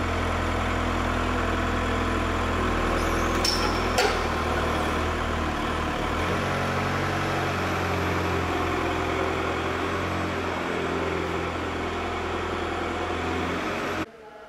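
Steady drone of metalworking factory machinery, with a strong low hum and a single sharp click about four seconds in; it cuts off abruptly near the end.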